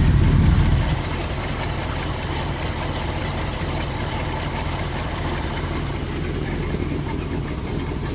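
1974 Chevrolet C65 grain truck's 366 V8 idling with a low, steady rumble, louder for about the first second and then settling; the exhaust is badly in need of mufflers.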